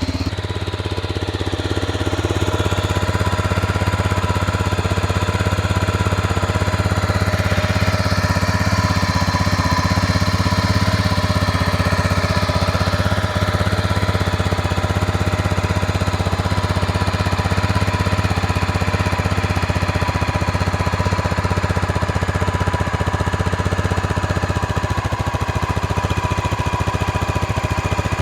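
1988 Honda NX650's air-cooled single-cylinder four-stroke engine idling steadily and smoothly on half choke, warming up after a cold start.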